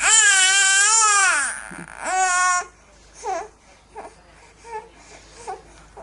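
Baby crying: one long wail of about a second and a half that drops in pitch at its end, a shorter cry after it, then a few short, quieter whimpers.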